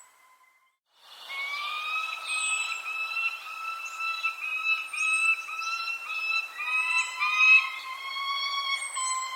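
Birdsong after about a second of near silence: a continuous whistled song in short linked phrases, about two a second, with faint, quick, high chirps that fall in pitch above it.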